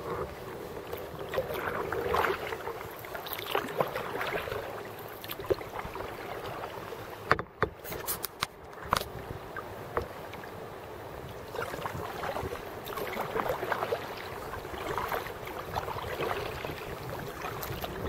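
Kayak paddling: the paddle dipping and pulling through the water, splashing sounds that swell every second or two, with a few sharp knocks about seven to ten seconds in.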